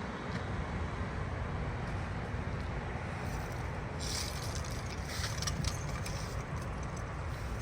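Steady outdoor road noise: a low rumble of vehicles, with a few brief higher rattling clicks from about four seconds in.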